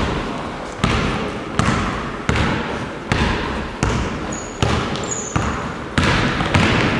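A basketball being dribbled on a hard gym floor, bouncing steadily about once every three-quarters of a second, each bounce echoing briefly in the hall.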